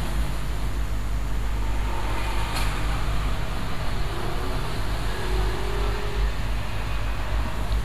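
Steady low rumble of background noise, with a brief sharp click about two and a half seconds in.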